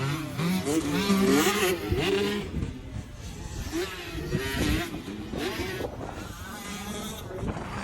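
Dirt bike engine revving up and down, its pitch rising and falling several times, loudest about one to two seconds in.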